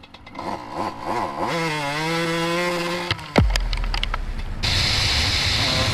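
Single-cylinder two-stroke engine of a 2008 Suzuki RM125 dirt bike, revved in quick rising and falling blips, then held at a steady speed. About three seconds in the pitch drops sharply and gives way to a lower, rougher steady noise.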